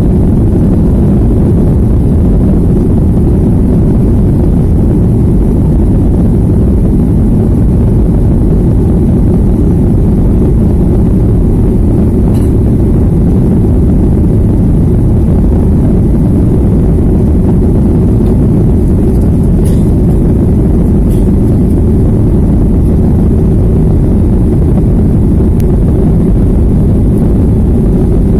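Steady, loud rumble of a jet airliner's engines and airflow heard from inside the cabin during the climb after takeoff.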